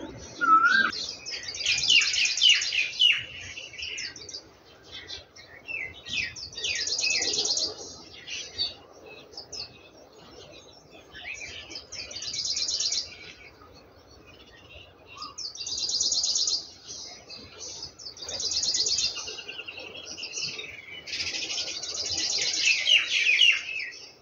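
Small birds chirping, in bursts of rapid high twittering about a second long that come every few seconds.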